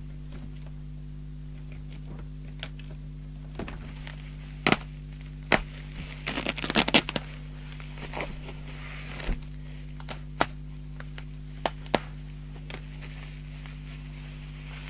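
Packaging and a radio being handled on a bench: scattered sharp knocks and clicks, with a quick run of crinkling and rattling about six to seven seconds in. A steady low electrical hum runs underneath.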